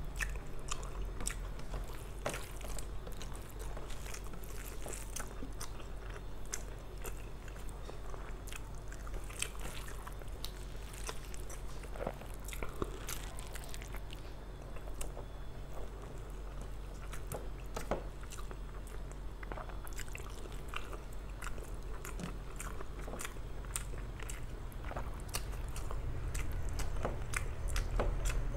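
Close-miked chewing and wet mouth sounds of a person eating rice and mutton curry by hand, with many irregular small clicks and smacks over a low steady hum.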